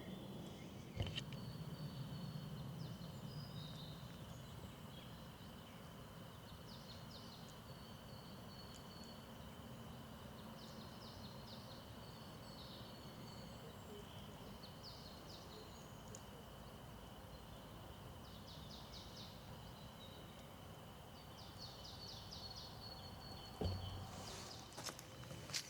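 Faint woodland ambience: a songbird sings short phrases of rapid high notes every couple of seconds over a steady high-pitched whine. There is a sharp thump about a second in, and a couple more near the end.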